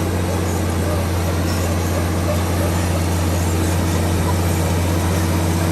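Komatsu D65PX bulldozer's diesel engine running steadily under a constant, deep hum.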